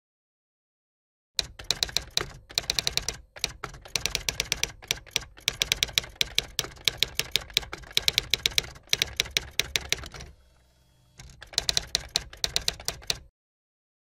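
Typing sound effect: rapid key clicks in quick runs, starting about a second and a half in, pausing briefly near the end, then stopping shortly before the end.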